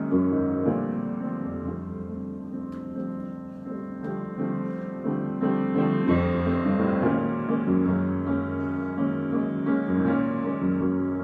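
Solo piano improvisation: slow, sustained chords, with a new chord struck every few seconds.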